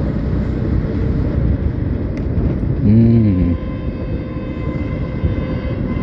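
Motorcycle riding on the road: a steady low rumble of engine and wind noise. About three seconds in, a brief low pitched tone rises and falls in pitch, and faint high steady tones follow.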